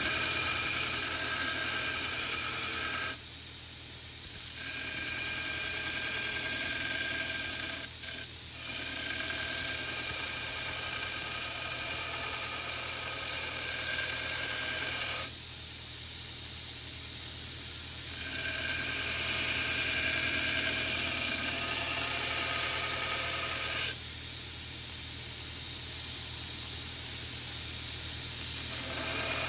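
Power grinder running steadily with a constant motor hum, grinding the steel of a forged knife blade to shape; the grinding sound eases off several times as the blade is lifted from the abrasive and comes back when it is pressed on again.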